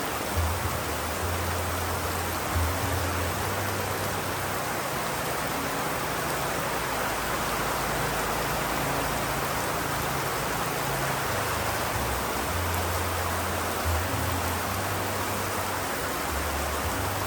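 Steady, even rain hiss with no separate drops standing out. A low tone sounds underneath, coming and going every few seconds.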